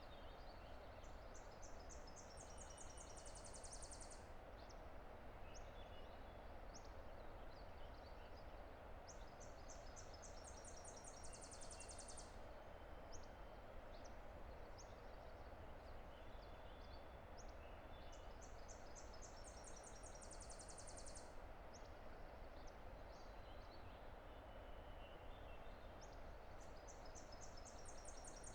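A distant river rushing steadily and faintly. Over it a songbird repeats the same high song four times, about every eight or nine seconds: a few notes quickening into a fast high trill that stops abruptly. Scattered faint chips come between the songs.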